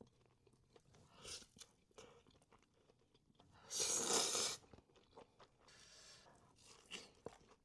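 Close-miked eating of a breaded, sauced fried chicken tender: one loud crunchy bite lasting about a second, a little under four seconds in, with softer crunches and chewing around it.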